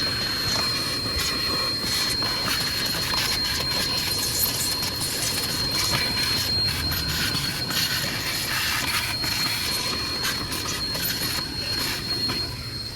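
Car wash vacuum hose running, a steady rushing of air with a thin high whine, with scattered clicks and rattles as dirt is sucked out of a car's air filter box.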